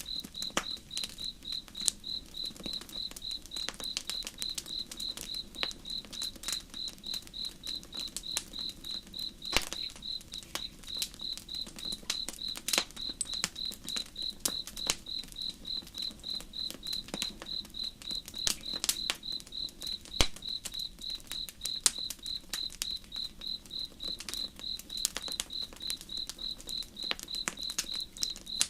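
Crickets chirping in a steady, evenly spaced rhythm over the irregular crackles and pops of a campfire, with a low, even rush of water beneath.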